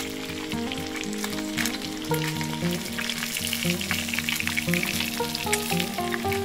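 Fish pieces frying in a clay pan, a steady sizzle with many sharp crackles and pops.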